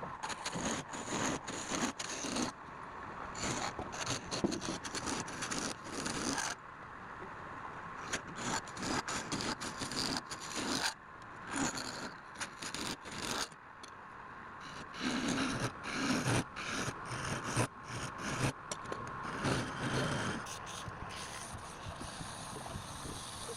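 Wood turning on a lathe: a cutting tool scraping against spinning wood in short, irregular passes, over a steady high hum.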